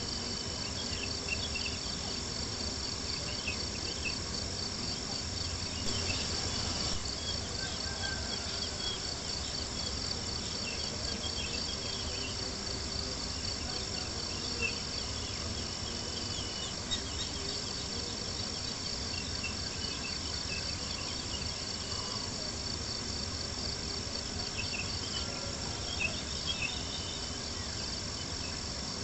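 Crickets chirping in a steady, high, pulsing trill, with a few sharp pops from a crackling campfire.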